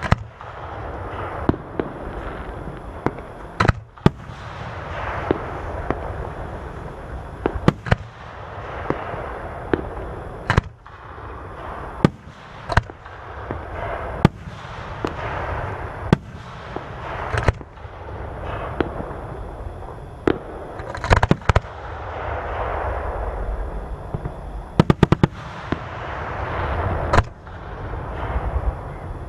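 Aerial fireworks display: repeated sharp shell bursts, some in quick rapid volleys, each followed by a long crackling, fizzing tail as the stars burn out.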